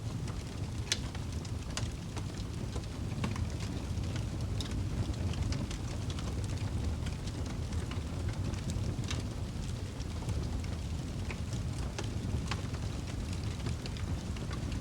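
Wood fire burning in a fireplace: a steady low roar of flames with scattered sharp crackles and pops, a few each second.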